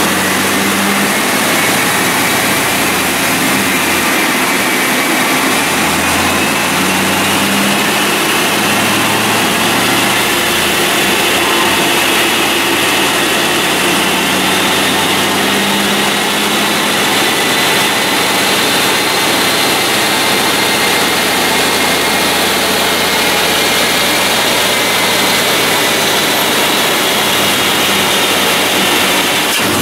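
2000 Pontiac Trans Am WS6's LS1 V8 running on a chassis dyno in fourth gear, loud and steady. A whine climbs slowly in pitch for about fifteen seconds as the speed builds, holds high, and drops away right at the end.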